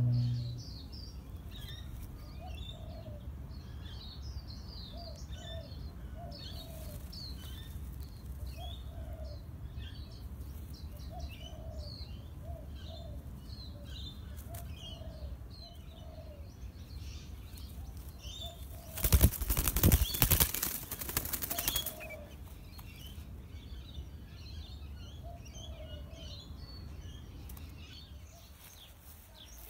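Birds chirping continuously in the background, with a lower repeated call in between. About 19 seconds in, a bird flaps its wings close by for about three seconds, the loudest sound.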